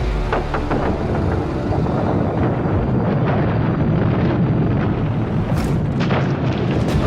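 A loud, continuous deep rumble with many sharp cracks and crackles through it, starting suddenly.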